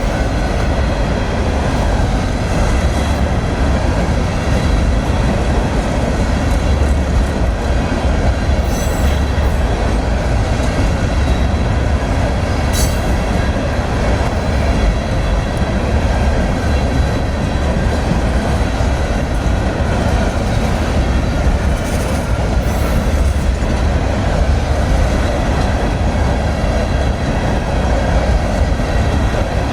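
Freight train cars rolling past in a steady, loud rumble and rattle of wheels on rail, with brief faint high squeals a few times.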